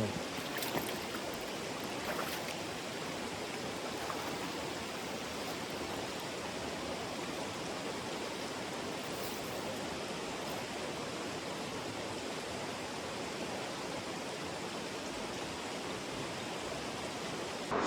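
A small stream's water running, a steady even rush.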